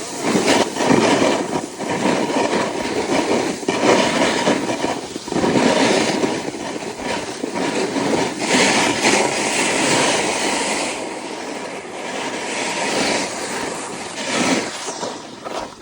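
Snowboard riding downhill: the board's edges scrape and hiss over the snow in swells, with wind rushing over the microphone.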